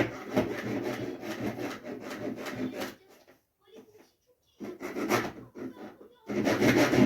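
Child's toy saw scraping back and forth against a toy car, in a long stretch of strokes, a pause, then two shorter bursts near the end.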